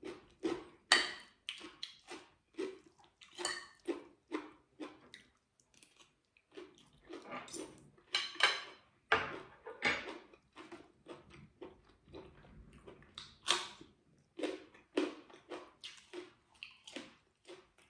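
Close chewing of a mouthful of stir-fried pork, bok choy and rice: many short, irregular mouth sounds and wet clicks, coming in quick clusters with brief gaps.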